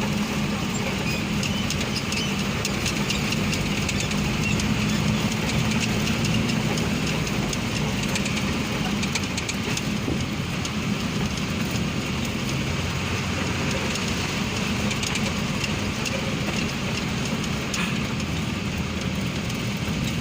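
A truck's engine running steadily while driving, with road noise and frequent light rattles.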